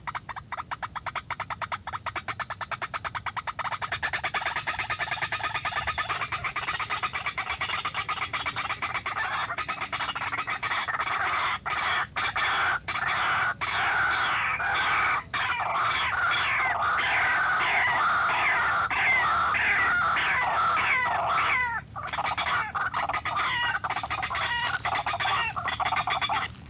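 White-breasted waterhen (ruak-ruak) calling: a long, rapid run of repeated harsh clucking notes that turns into quick falling notes in the second half, with a few short breaks, the clearest about three-quarters of the way through.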